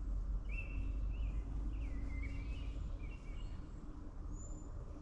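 Songbirds chirping and warbling in short, pitch-sliding phrases, most of them in the first three and a half seconds, with one high thin note later on, over a steady low rumble.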